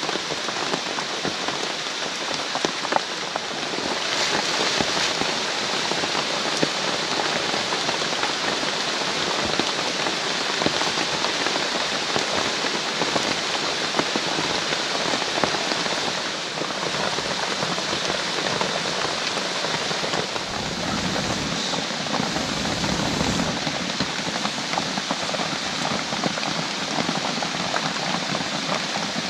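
Heavy rain falling steadily, with many individual drops ticking on nearby surfaces.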